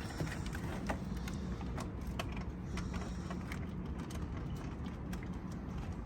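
A steady low mechanical hum with scattered light clicks and clinks of hand tools on metal, as during engine-bay work.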